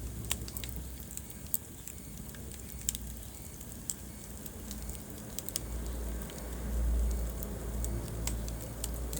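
Wood fire burning in a fireplace: scattered sharp crackles and pops over a low rumble of flames. The rumble swells from about halfway through.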